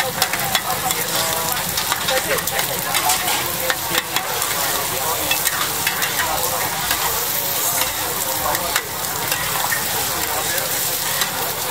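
Oyster omelette frying in oil on a large black iron pan: a steady sizzle, with frequent sharp clicks and scrapes of two metal spatulas chopping and turning the egg against the pan.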